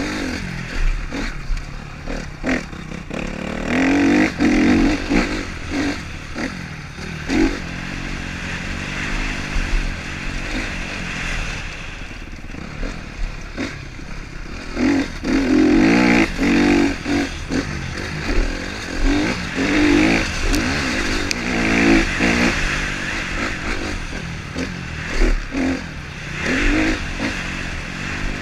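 Motocross motorcycle engines revving hard and easing off again and again, the sound swelling to loud peaks several times and dropping back in between.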